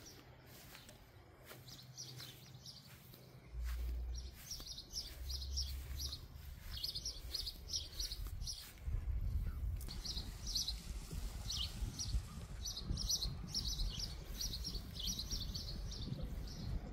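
Small songbirds chirping in quick runs of short, high notes, over a low rumble that comes in a few seconds in and grows stronger about halfway through.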